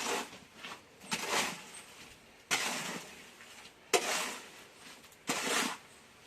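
Steel shovel scraping through a pile of freshly hand-mixed concrete, five scoops about a second and a quarter apart, one starting with a sharp knock.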